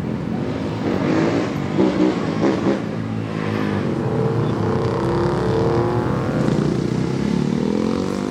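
A car's engine revving in short, loud bursts in the first few seconds, then running at a steadier pitch that rises and falls as the car drives around.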